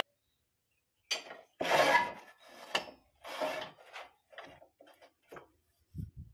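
A dozen short, irregular scrapes and rubs of wood, like a turned wooden piece being handled and rubbed by hand, followed by a couple of low knocks near the end.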